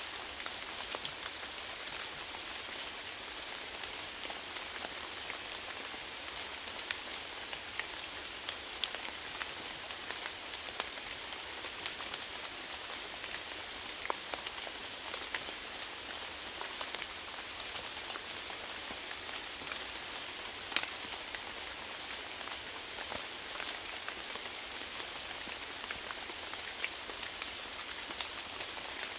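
Steady rainfall, an even hiss with many individual drops pattering and ticking on a surface at irregular moments.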